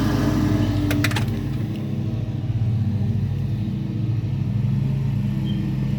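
Engine of a riding lawn mower running steadily as it cuts grass, with a few sharp clicks about a second in.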